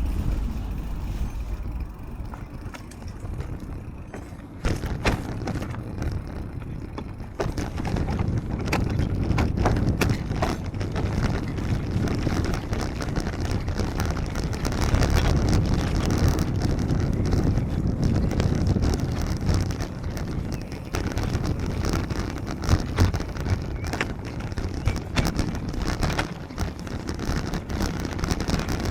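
Wind rushing over the microphone and tyre and road noise from a moving bicycle in the rain, a steady low rumble that gets louder about four and a half seconds in. Scattered sharp clicks and knocks run through it.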